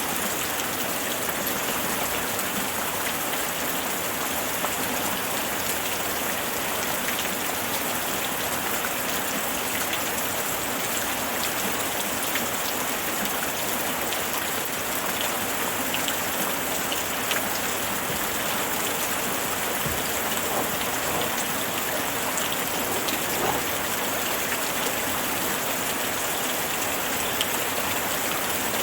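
Steady rainfall: an even hiss of rain with many small drops pattering on surfaces.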